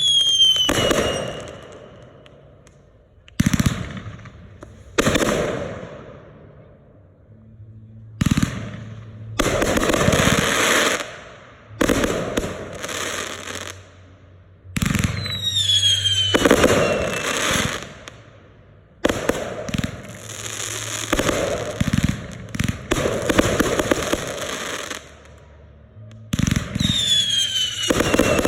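Red Apple consumer aerial fireworks going off in quick succession, a string of loud sudden bursts each trailing into crackle. A few shells whistle down in pitch: near the start, about halfway through, and near the end.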